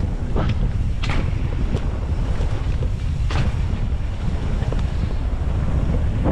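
Wind rushing over the microphone of a mountain bike ridden fast down a dirt trail, a steady rumble with tyre noise and a few short scrapes or rattles.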